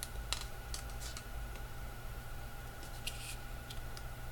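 Light clicks and a brief crisp rustle about three seconds in as a bracelet is handled.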